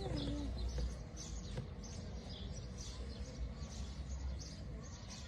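Birds chirping: short, high calls repeating irregularly over a low, steady rumble.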